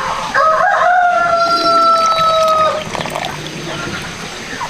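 A rooster crowing once: a single loud call of a little over two seconds, held at a steady pitch and dropping slightly at the end.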